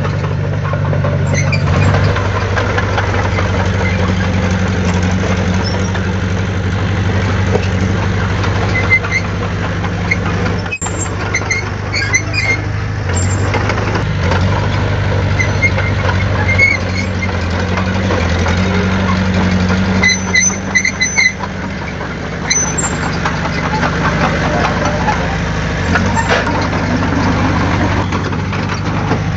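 Heavy diesel engine of construction machinery running steadily, its pitch shifting a little now and then. Short high-pitched squeaks come through several times, and there is one sharp click about halfway through.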